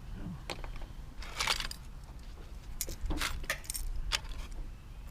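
Small metal jewelry pieces clinking and jingling as they are picked through and set down, in a few short clusters of light metallic clinks.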